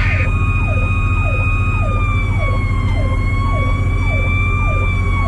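Sirens heard from inside a fire truck's cab: a continuous wail that slowly sinks in pitch, like a mechanical Federal Q siren winding down, over an electronic siren's quick falling sweeps, about two a second. A loud, steady diesel engine drone runs beneath.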